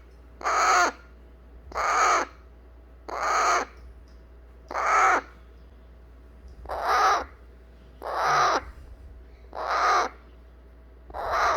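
Baby Eclectus parrot giving harsh, rasping begging calls over and over, about eight in all, each roughly half a second long. This is a hand-fed chick fussing to be held after its formula feed.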